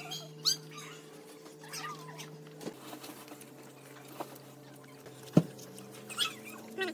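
Small animals making short, high squeaks and chirps, scattered irregularly, with a single sharp knock about five seconds in.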